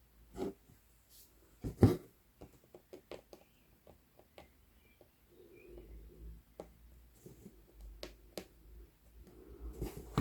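Close-up handling sounds of hand cross-stitching on Aida fabric: scattered light clicks and taps, a louder knock about two seconds in, and a soft rustle through the second half.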